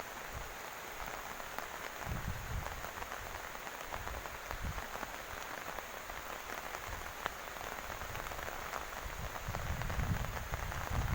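Heavy rain falling steadily, a dense hiss full of fine pattering drops. Gusts of wind buffet the microphone with low rumbles about two seconds in, again mid-way, and more strongly near the end.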